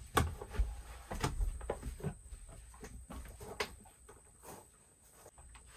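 Handling noises: a scatter of short knocks and clicks, busiest in the first two seconds and fainter toward the end.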